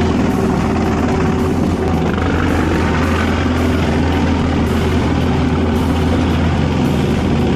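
Heavy forestry machine running steadily under load, with a constant low hum.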